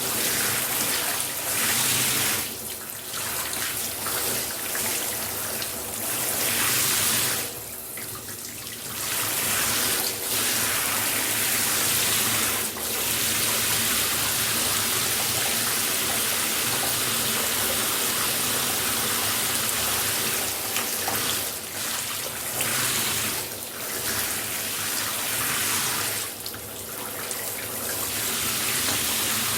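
Shower spray running and hissing steadily onto a hard surface. Its sound drops off and changes briefly several times, as if the stream is broken up for a moment.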